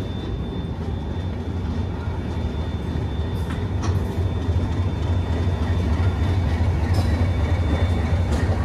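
Dakshin Express passenger train running along the track: a steady low rumble of wheels and coach that slowly grows louder.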